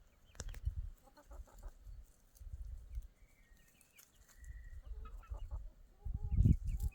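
Chickens clucking in short, scattered calls over a low rumbling noise that is loudest near the end.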